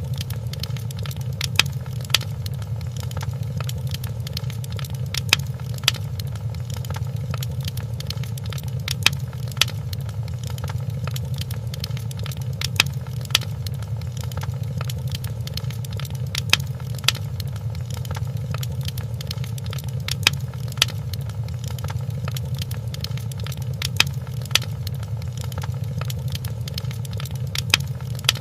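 Wood fire crackling in a fireplace: sharp pops, mostly in pairs, every few seconds over a steady low rumble.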